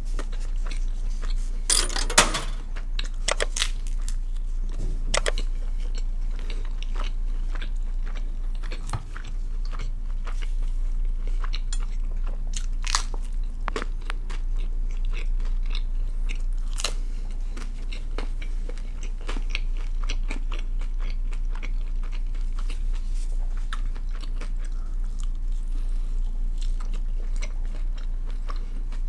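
Close-miked biting and chewing of a pizza margherita slice: many small crisp crunches from the crust, the loudest bite about two seconds in, over a steady low hum.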